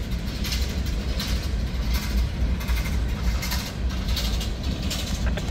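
Freight train rolling past: a steady low rumble with irregular clacks as the wheels run over the rails.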